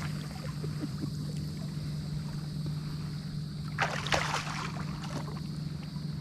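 Water splashing and sloshing close to the microphone, with a crackly burst about four seconds in, over a steady low hum.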